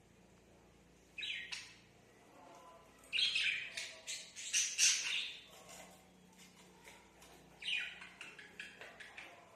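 Baby budgerigar chirping and squawking in three bursts: a short one about a second in, a longer run of chatter in the middle, and another near the end.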